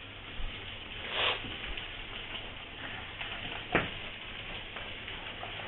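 Low, steady sizzling hiss of food frying in a pan on a gas stove, with a brief scraping swell about a second in and one sharp knock near the middle.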